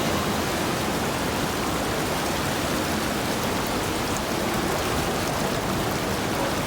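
Waterfall rushing: a steady, loud roar of falling water with no change in level.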